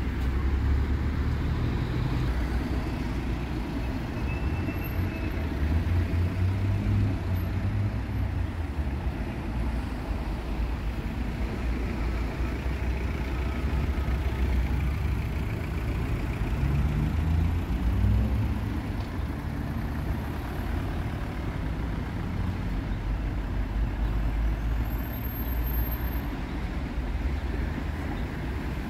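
Road traffic: cars and heavier vehicles driving through a roundabout, a steady low engine and tyre rumble that swells and eases as vehicles pass.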